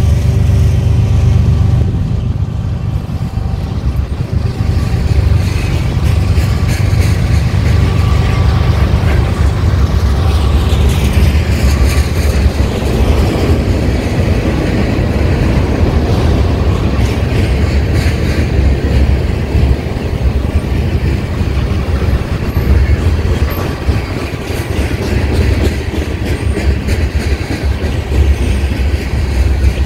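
Freight train of covered hoppers, tank cars and boxcars rolling past: a steady, loud rumble of steel wheels on rail, with scattered clicks as the wheels pass over rail joints.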